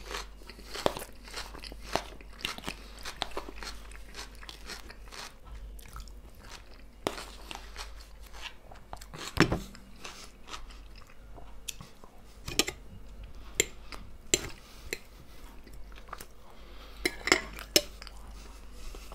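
Close-miked mouth sounds of a man chewing fried potatoes with cheese and salad: moist chewing with irregular sharp crunches and clicks scattered throughout.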